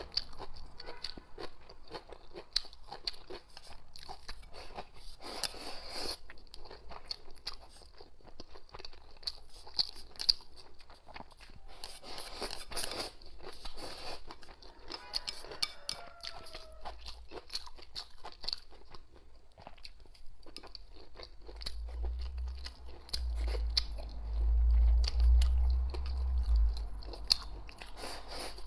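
Close-up chewing and crunching of food, with many small wet clicks and crackles of eating. About two-thirds of the way in, a low rumble comes up for several seconds and is the loudest sound before fading.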